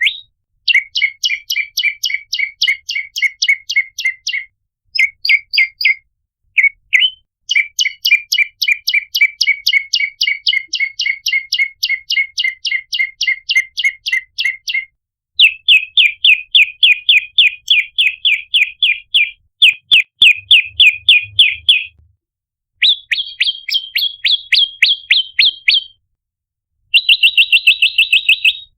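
Prenjak lumut (red-headed prenjak) calling: rapid strings of sharp, high chirps at about five to six a second, in bouts of several seconds with short pauses between them.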